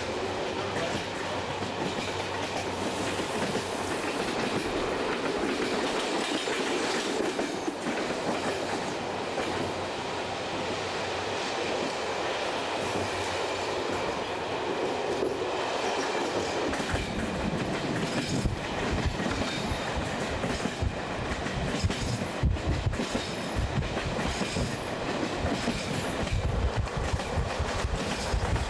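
A passenger train running along the track, heard from aboard. From a little over halfway through, a deeper rumble with irregular knocks joins the steady running noise.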